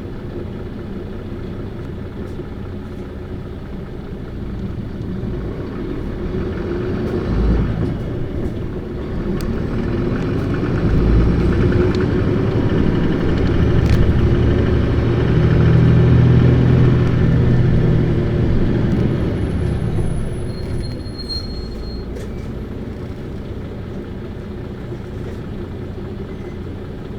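Interior sound of an Isuzu Erga (PKG-LV234Q2) city bus's diesel engine revving hard under acceleration, building up over several seconds to a loud peak, then easing off to a lower steady drone. Two low thumps come before the peak.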